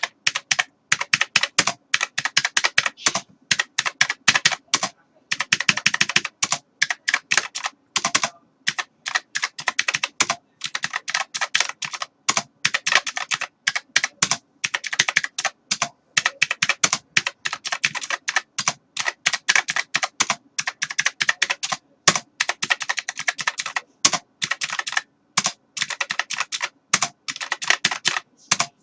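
Typing on a computer keyboard: fast runs of key clicks broken by brief pauses every few seconds.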